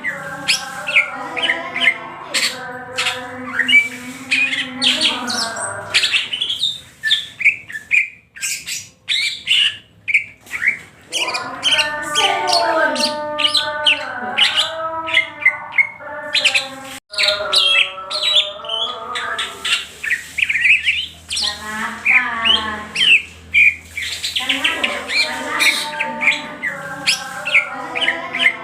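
Cucak hijau (green leafbird) singing energetically in the 'ngentrok' style, a fast run of sharp chirps, whistled phrases and chattering notes, with a brief lull about eight seconds in.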